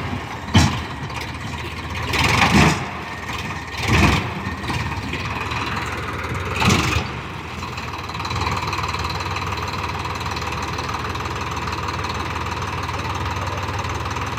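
Eicher 557 tractor's three-cylinder diesel engine running steadily, with a sharp knock about half a second in and three short louder noises over the first seven seconds.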